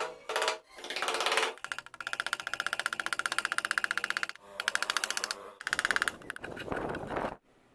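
Small woodworking power tool running in short bursts with a fast rattling rhythm of about a dozen strokes a second, stopping and starting between cuts; the sound cuts off suddenly near the end.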